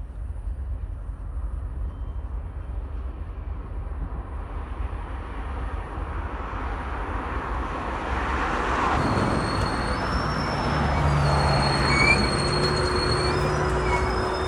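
Train approaching and passing, its noise building over several seconds. From about nine seconds in, a steady high-pitched wheel squeal shifts in pitch over a low hum.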